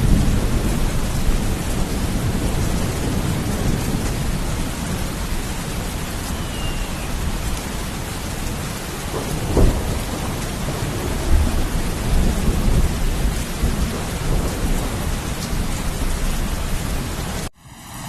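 Steady heavy rain with low rumbling thunder. About halfway through there is a brief louder crack, and near the end the sound cuts off suddenly.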